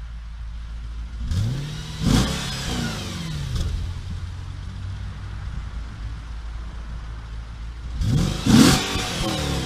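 Audi RS4 B7's 4.2-litre naturally aspirated V8 idling and revved twice: a rise and fall back to idle about a second in, and a second, louder rev near the end.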